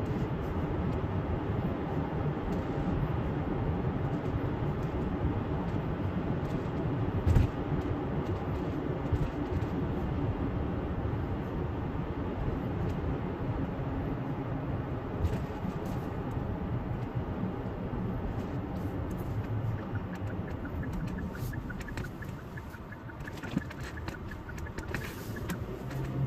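Steady road and engine noise inside a moving car, with a sharp knock about seven seconds in. It gets somewhat quieter over the last few seconds.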